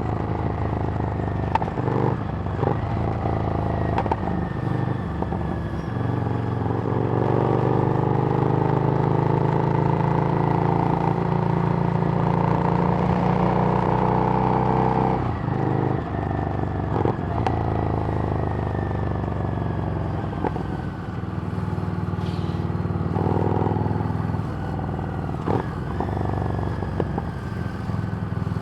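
Harley-Davidson Street Rod's 750 cc V-twin through a Screamin' Eagle exhaust, running under way. The engine note changes about halfway through and again a few seconds before the end, with scattered short knocks.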